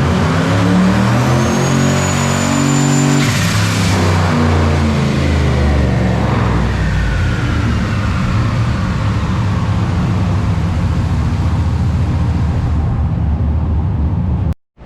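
Turbocharged 6.0-litre V8 of a Trailblazer SS making a partial pull on the dyno to about 5,500 rpm. The engine revs up for about three seconds as the turbo whistle climbs. A loud rush of noise comes as it lets off, and then the engine winds down and runs on at lower revs.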